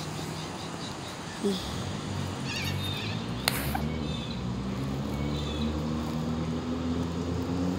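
A few short, wavering bird chirps about two and a half seconds in, over a low, steady motor hum that grows louder through the rest.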